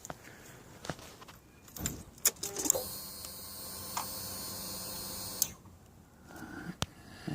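A few clicks and knocks, then a small electric motor whirring steadily for about two and a half seconds before cutting off suddenly. This is typical of a motorcycle's fuel pump priming when the ignition of a 2006 Suzuki GSX-R 600 is switched on, with the engine not yet running.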